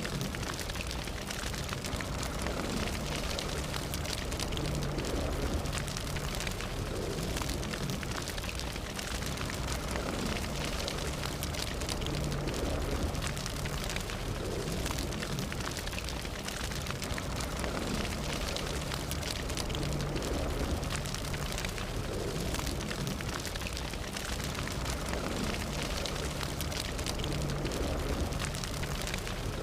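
Fire burning steadily: a constant low rush with frequent small crackles and pops throughout.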